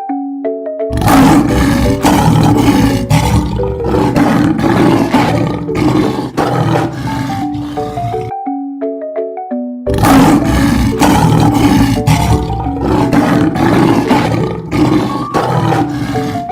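Lion roaring in two long bouts, the second starting after a short break about eight seconds in, over a simple xylophone-like background tune.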